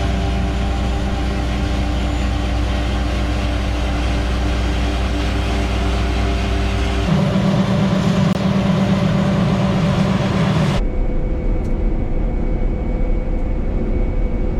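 Truck engine running steadily while driving. The engine sound changes abruptly about seven seconds in and again near eleven seconds.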